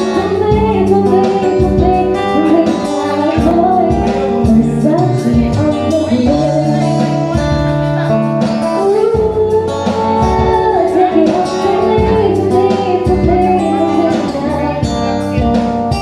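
A band playing a song: a singer's voice carrying the melody over guitar, bass and a steady drum beat.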